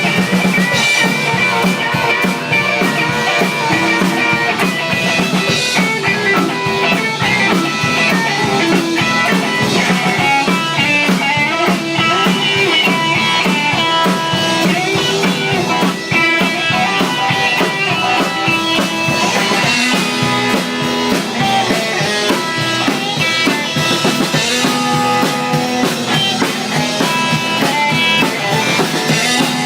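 Rock band playing an instrumental passage: electric guitars over a drum kit, steady and loud throughout.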